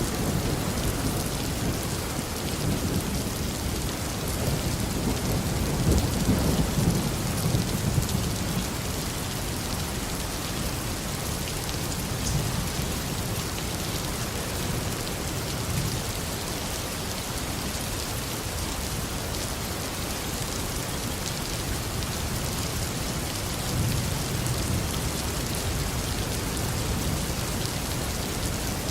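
Heavy tropical rain falling steadily on a garden, with low rolls of thunder rumbling several seconds in and again near the end.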